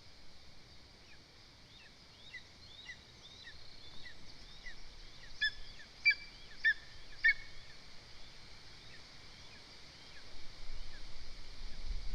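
Lesser spotted eagle giving four loud yelping calls about half a second apart over a run of faint, quick, high chirps. A low rumble rises near the end.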